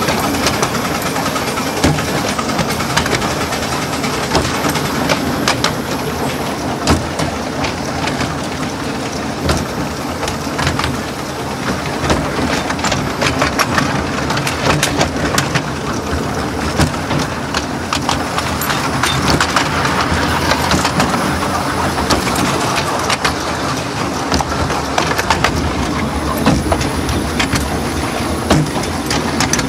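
Miniature railway carriage running along the track, heard from on board: a steady rumble of wheels on rail with frequent irregular clicks and rattles as the wheels cross rail joints.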